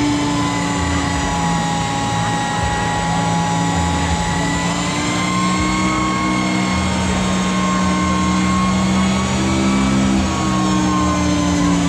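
Harley-Davidson LiveWire electric motorcycle's motor and drivetrain whining under throttle, a steady whine whose pitch drifts gently up and down.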